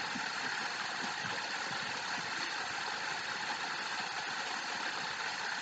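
Falling water rushing in a steady, even hiss.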